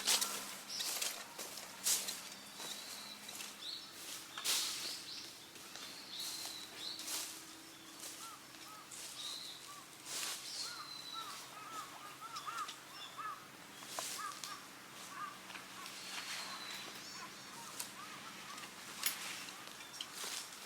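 Birds calling in woodland: short whistled calls, and a quick run of small chirps in the middle, over scattered light clicks and rustles.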